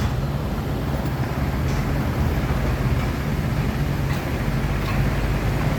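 Heavy truck engine running steadily at idle: a constant low hum with no change in pitch or level.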